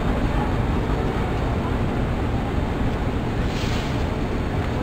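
Passenger train coaches rolling along the track, giving a steady low rumble, with a brief faint hiss about three and a half seconds in.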